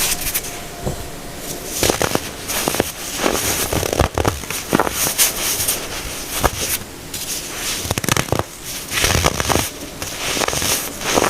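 Pressed baking soda being crushed by hand: irregular crunching and crackling with many sharp snaps.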